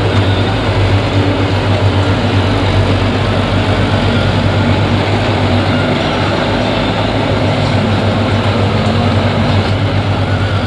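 Tractor's diesel engine running steadily at an even speed, a constant low hum under a dense mechanical clatter.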